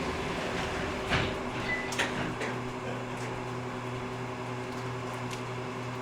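Otis Hovair air-cushion people mover heard from inside: its sliding doors shut with a thud about a second in, followed by a lighter click a second later. A steady low hum with several held tones runs beneath, as the car readies to depart.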